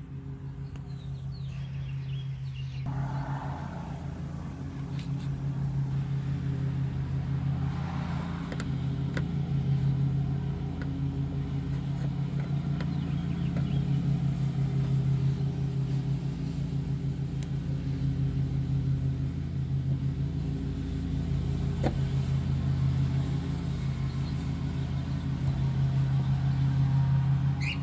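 A steady low mechanical drone, engine-like, with a few faint clicks.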